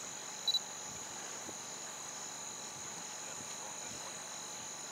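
Insects chirring with a steady high-pitched drone. About half a second in, a short electronic double beep sounds over it.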